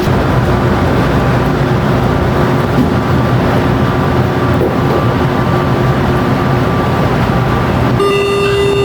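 São Paulo Metro train running, a loud steady rumble with a faint motor hum. About eight seconds in, a steady electronic tone starts.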